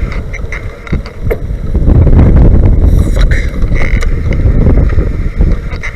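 Wind buffeting the microphone while riding a bicycle: a loud low rumble that swells about two seconds in, with scattered small clicks and rattles.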